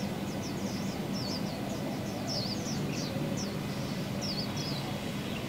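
Small birds chirping in quick, twisting high notes, a dozen or so in a row, over a steady low hum.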